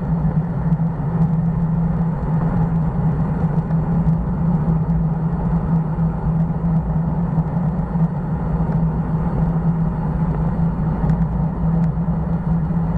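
Steady wind and road noise from riding a bicycle, with a constant low drone.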